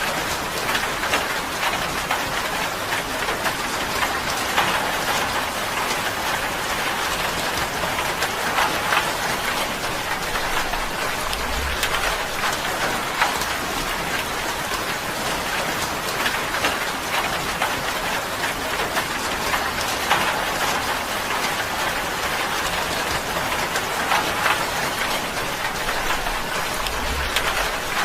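Steady rain pattering on a tin roof, a dense even patter of drops with a couple of brief low rumbles.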